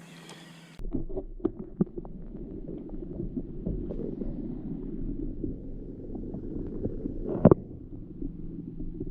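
Muffled water sound from a camera held underwater beside a kayak: a dull sloshing rumble with scattered knocks, and a louder knock near the end.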